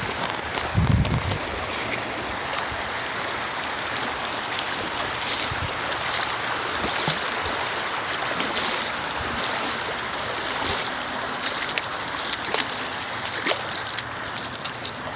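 River water rushing and splashing steadily, with a brief low thump about a second in.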